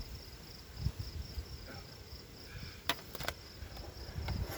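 Wooden beehive being pried open with a hive tool: two sharp cracks close together about three seconds in, over low handling rumble. A steady, evenly pulsing high chirring of insects runs underneath.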